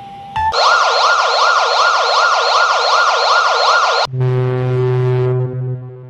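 Electronic emergency-alert alarm: a loud warbling siren tone sweeping up and down about two and a half times a second. About four seconds in it cuts off abruptly into a low, steady buzz that slowly fades.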